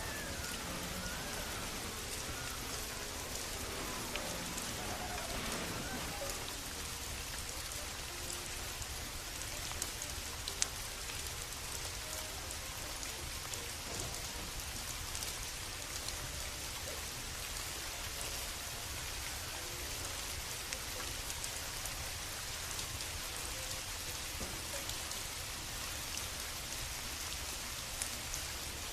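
Steady rain falling and pattering on surfaces, with a few short sharp clicks now and then.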